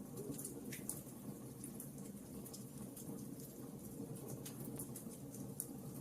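Wood fire burning in a fireplace: a steady low rustle of flames with irregular sharp crackles and pops from the burning wood.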